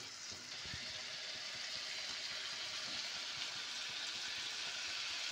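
Tomato and spice masala frying in mustard oil in a frying pan, sizzling steadily with a fine, even crackle.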